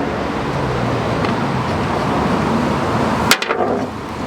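Steady road-traffic noise, with one sharp click a little over three seconds in.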